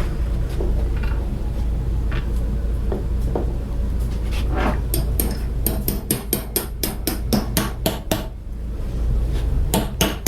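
A hammer driving 1/2-inch carriage bolts through a wood-and-steel-plate beam. There are a few light knocks at first, then from about halfway in a fast run of sharp blows, about five a second. The blows pause briefly and start again near the end.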